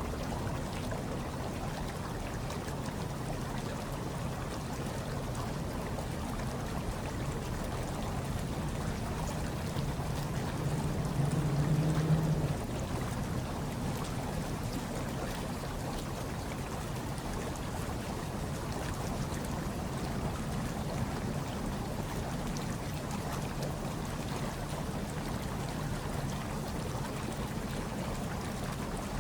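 Hot tub water churning and bubbling in a steady low rush. About ten seconds in, a low tone swells louder for two seconds or so, then cuts off sharply.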